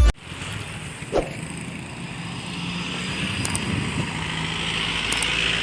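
Roadside traffic: vehicle engines and tyre noise on the road, growing steadily louder, with a short pitched sound about a second in.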